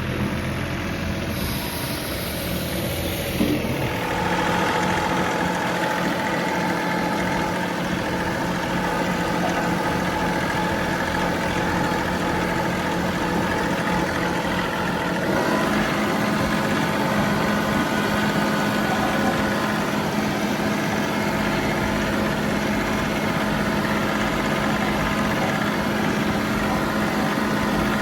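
John Deere 3038E compact tractor's three-cylinder diesel engine running steadily, its engine speed shifting about four seconds in and again about fifteen seconds in.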